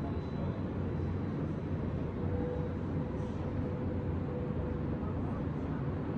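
Steady low rumble of distant city traffic, heard from above the street. A faint thin tone holds for a few seconds in the middle.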